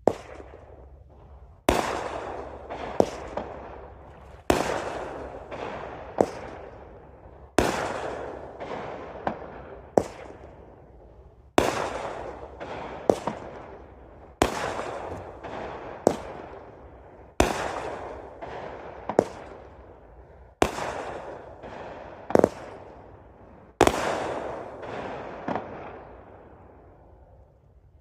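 200-gram consumer firework cake firing shot after shot: about nine bangs roughly three seconds apart, each followed by a second sharp report about a second later and a fading noisy tail. The shots stop a few seconds before the end, leaving the last tail to die away.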